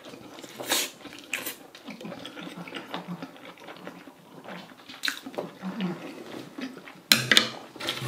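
A person chewing a large mouthful of black-bean-sauce (jjajang) ramyeon noodles close to the microphone, with short wet slurps and sniffs about a second in and near five seconds, and the loudest mouth sound, a longer burst, about seven seconds in.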